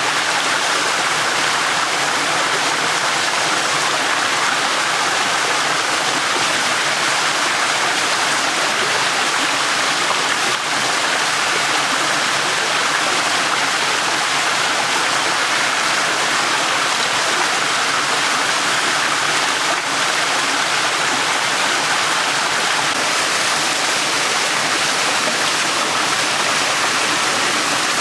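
Small stream running: a steady, unbroken rush of flowing water.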